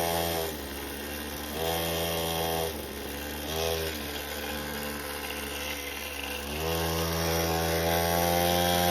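Mini bike's small gas engine under way, rising in revs and easing off a few times, with short throttle blips, then picking up and holding higher revs for the last couple of seconds.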